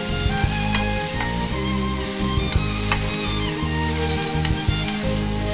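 Yi mein noodles and bean sprouts sizzling in a frying pan as they are stir-fried and tossed with chopsticks, with a few sharp clicks of the chopsticks against the pan. Background music with held notes plays under it.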